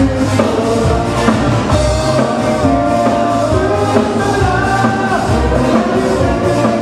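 Live band playing a song, with a steady drum-kit beat and bass under sustained melody notes.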